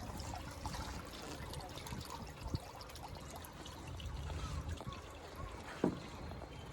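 Water trickling and splashing, with a low rumble and a few light knocks.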